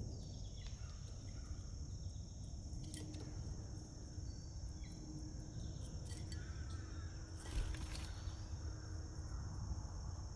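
A steady, high-pitched insect chorus, such as crickets, with scattered short bird chirps and a few sharp clicks.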